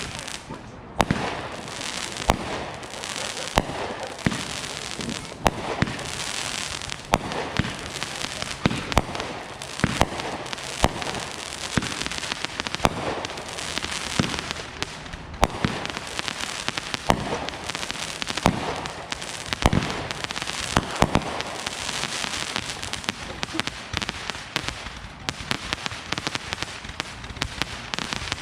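Consumer fireworks going off: a continuous string of sharp bangs, about one or two a second, with crackling in between.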